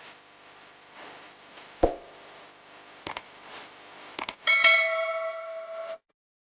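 A few sharp taps over a faint hiss, then a bell-like ringing tone with many overtones about four and a half seconds in, lasting about a second and a half before it cuts off abruptly.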